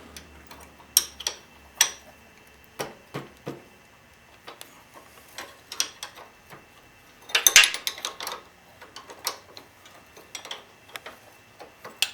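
Two 17mm wrenches clicking and clinking against a bolt and nut on a motorcycle's rear suspension linkage as they are fitted and worked: irregular sharp metal ticks, with a louder clatter about seven and a half seconds in.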